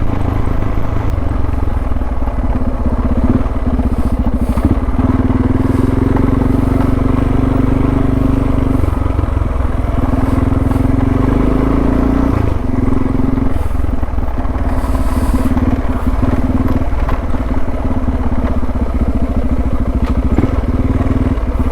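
Suzuki DR650's single-cylinder four-stroke engine running steadily at low revs while the bike is ridden, easing briefly a few times as the throttle comes off.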